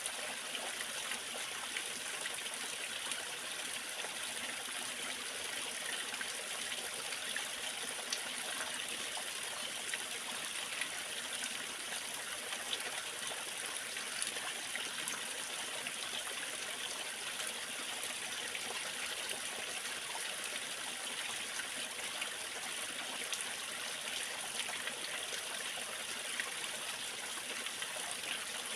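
Waterfall: water rushing and splashing steadily, an even hiss with small splashy ticks and no change throughout.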